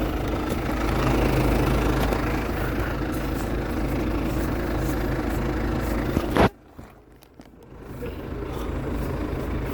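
Vehicle engine and road noise heard from inside the cabin while driving, a steady low hum. About six and a half seconds in a sharp click cuts in, the sound nearly drops out for a second or so, then the running noise rises back.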